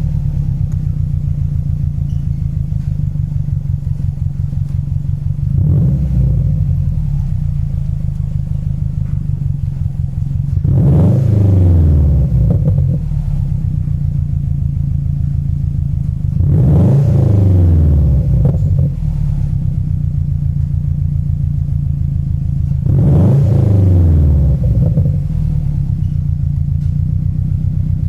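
2008 Subaru WRX's 2.5-litre turbocharged flat-four idling through an Invidia N1 cat-back exhaust with a low, steady rumble. It gets a small blip about six seconds in, then three free revs about six seconds apart, each rising and falling back to idle, with another starting at the very end.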